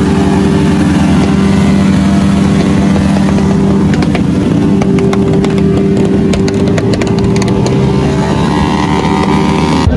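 Motorcycle engine held at high, steady revs during a burnout that is raising tyre smoke, with a run of sharp crackles about four to six seconds in. The sound cuts off abruptly near the end.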